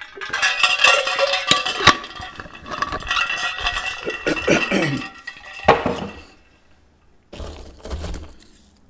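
Glassware or dishes clinking and rattling, with a run of sharp clinks that ring on briefly, loudest in the first two seconds, then softer knocks after a short pause.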